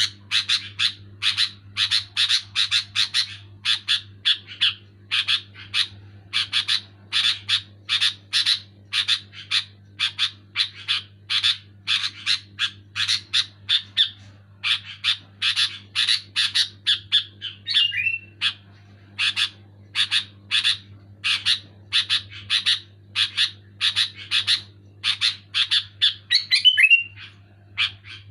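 Sooty-headed bulbul (kutilang) calling rapidly: a long run of short, sharp chattering notes, about two to four a second, with a brief falling whistled note twice. A steady low hum runs underneath.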